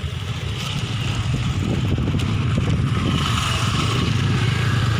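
Motorcycle or scooter engine running while riding along a road, with road and wind noise; it grows a little louder over the first few seconds.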